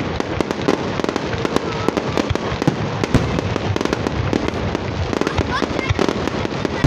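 Fireworks display going off: aerial shells bursting in a rapid, unbroken string of bangs and crackles.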